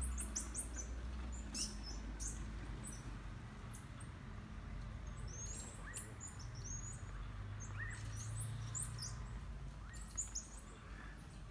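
Small birds chirping: short, high chirps come in scattered clusters throughout, over a low steady rumble.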